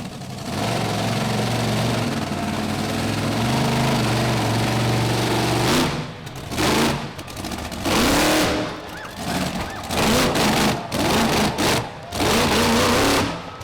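Monster truck engine held at high throttle for several seconds, then revved in a series of short bursts with brief dips between them.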